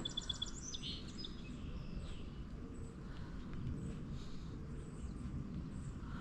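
Small birds chirping, with a quick run of high repeated chirps in the first second or so and scattered calls after, over a steady low outdoor rumble.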